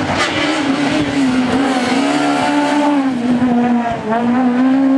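Rally car engine running hard at high revs, its pitch held steady with short dips about two and a half and four seconds in, with tyre noise beneath.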